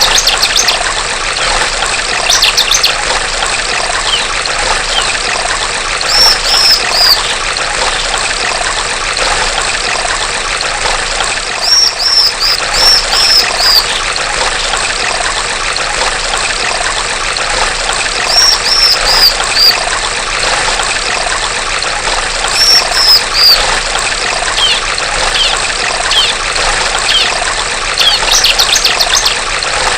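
Female bar-winged prinia (ciblek) calling over a steady trickling stream. It gives short runs of three to five high, arched chirps every few seconds, with a few quick trills near the start and the end.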